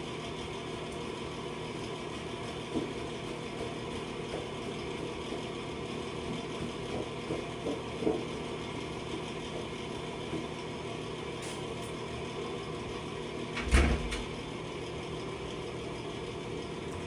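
3D printer running: a steady whir of its fans and stepper motors with a few faint clicks, and one louder knock about fourteen seconds in.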